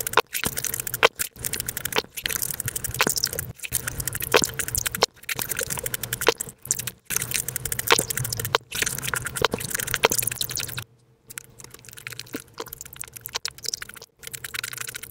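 Close-miked chewing of fruit, dragon fruit and then melon, played back five times faster than normal: a dense, rapid run of wet crunching and clicking mouth sounds. About eleven seconds in it drops to a quieter run of chewing.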